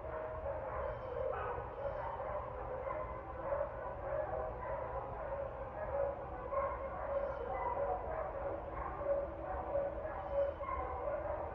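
Dogs barking and yipping over and over, with calls following one another closely and overlapping throughout.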